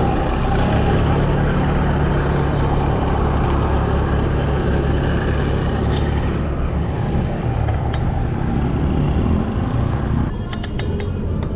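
Steady city road-traffic rumble of cars and trucks at an intersection. A few sharp clicks come near the end.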